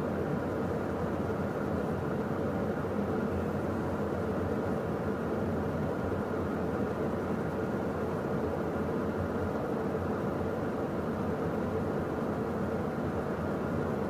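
Steady cockpit noise of a Beechcraft Premier 1A business jet in flight: an even rush of airflow over the cabin mixed with the hum of its twin Williams FJ44 turbofans.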